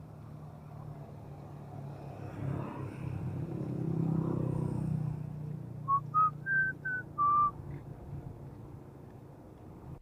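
A quick run of five or six short whistled notes, stepping up and then back down, over a steady low vehicle hum that swells for a few seconds before the whistling.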